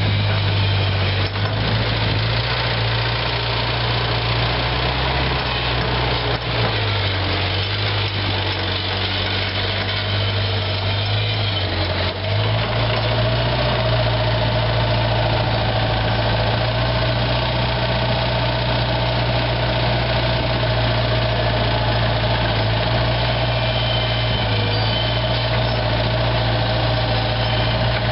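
Bobcat 743 skid steer's four-cylinder diesel engine running. Its pitch shifts slightly up and down for the first dozen seconds, then it settles into a steady idle with a thin higher tone over it.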